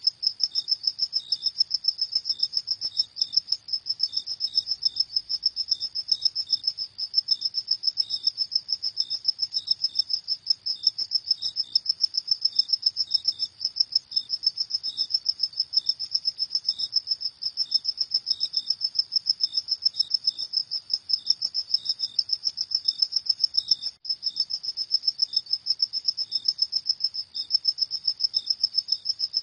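Crickets chirping at night in a steady, rapid, high-pitched trill. A second, slightly lower chirp pulses more slowly underneath.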